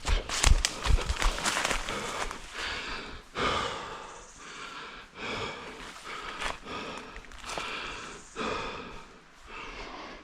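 An orienteer's heavy breathing while running, about one breath a second, with footfalls thudding on the ground in the first second or so.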